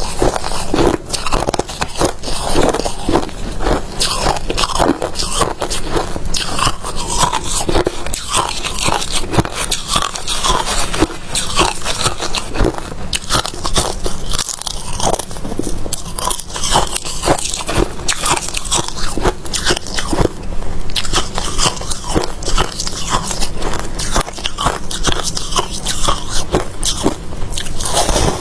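A person biting and chewing crunchy freezer frost, a continuous run of crisp crunches.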